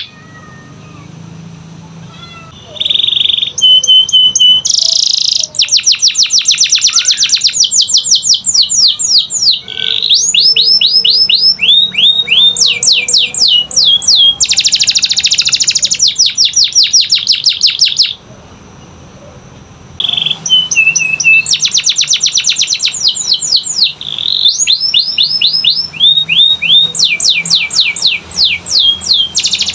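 Domestic canary singing a long song of fast repeated trills, each made of quick downward-sweeping notes, changing from one trill to the next. It pauses briefly at the start and again about two-thirds of the way through.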